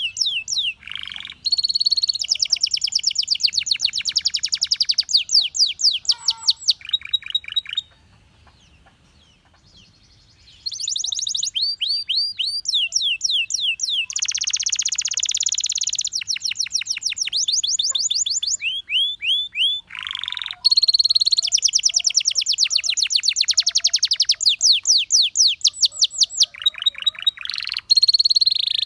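Belgian canary singing long trilled phrases of rapid, repeated high notes, many of them quick downward sweeps, with a short pause about a third of the way in before the song resumes.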